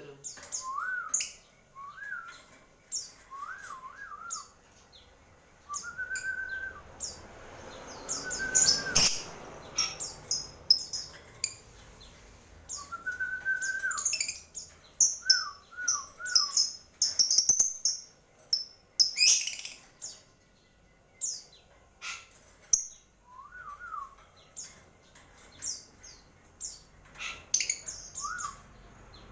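Small caged birds chirping: many short, high chirps come in quick clusters, and a lower slurred whistle that rises and falls repeats between them.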